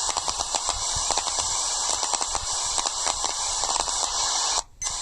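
Airband radio receiver hissing with open squelch between transmissions, with frequent crackling clicks over the hiss. The hiss cuts out abruptly for a moment near the end, then comes back.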